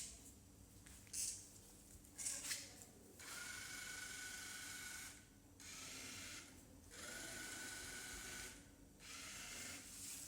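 Fire Bird V robot's geared DC drive motors whining as it drives, in runs of one to two seconds with short pauses between, after a couple of short clicks near the start.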